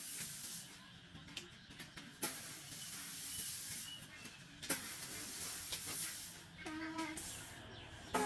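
A steady hiss that swells and fades, broken by a few sharp knocks, with a short voice-like call about two-thirds of the way through.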